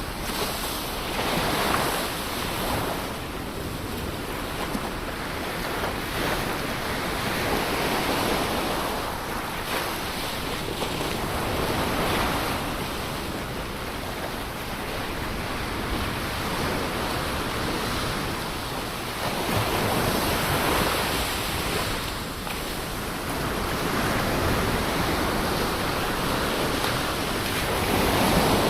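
Ocean waves breaking and washing on the shore, a steady rush of surf that swells with each wave every few seconds, the largest near the end. Some wind noise on the microphone.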